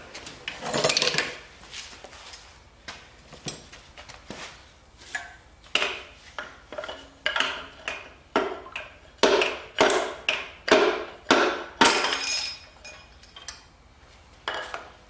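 Steel engine parts and hand tools clanking and knocking in a run of irregular sharp strikes, closest together between about nine and twelve seconds in, as connecting rods and pistons are taken out of a 5.3 LS block.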